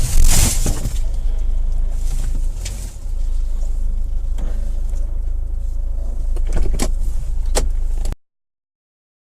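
Car running on the road, with a steady low engine and road rumble and a loud burst of noise just after the start. A few sharp knocks follow, then the sound cuts off abruptly about eight seconds in.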